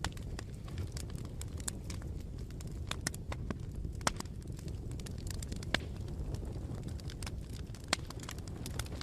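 Bonfire crackling: irregular sharp snaps and a few louder pops of burning wood over a steady low rumble of the flames.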